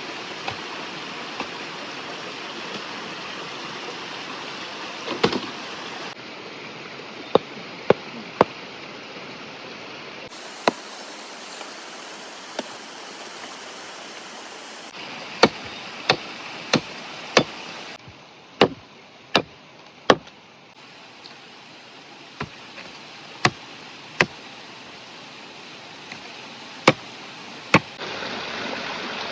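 Steady rushing of a river or stream, its level changing abruptly several times, with sharp knocks and snaps scattered throughout.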